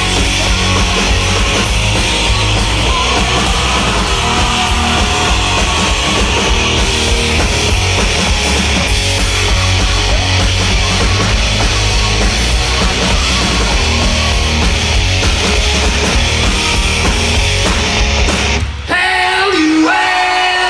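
Live rock band playing loud, distorted guitar, bass and drums. The band stops suddenly near the end, leaving a lone voice.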